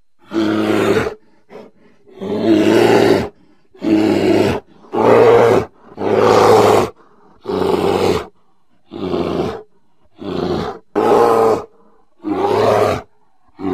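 A bear roaring over and over: about ten loud, deep growling roars, each lasting up to about a second, with brief silences between them.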